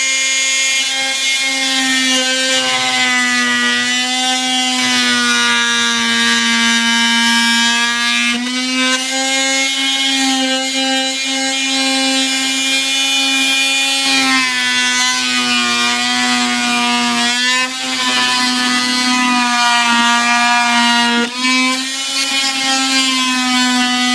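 Handheld electric power tool cutting through the layout's base along a marked line. It makes a steady, high motor whine that sags a little in pitch now and then as it bites, with a few brief dips.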